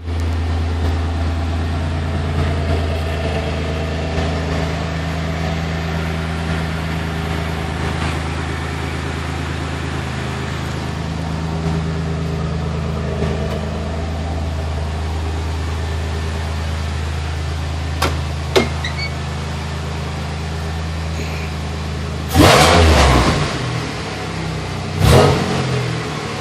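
Car engine idling steadily through a 2.5-inch mandrel-bent exhaust with a Walker muffler. Two short clicks come about two-thirds of the way through, then the engine is revved in two quick blips near the end.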